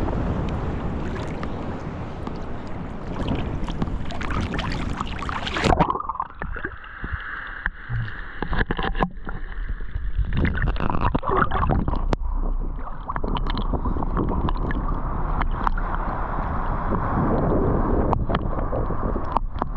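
Ocean water and wind rushing for about six seconds, then a sudden change to muffled gurgling and sloshing water with scattered knocks, as if the sound is now heard from under or at the water's surface.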